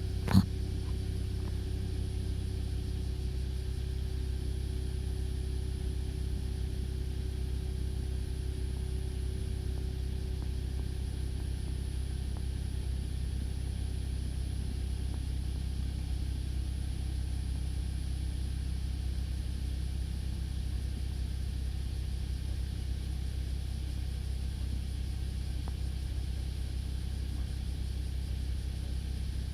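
Gasoline car engine idling steadily, with a sharp click just after the start. The abnormal noise, which the owner suspects comes from the engine and alternator, is mostly gone after an engine cleaner was added to the fuel.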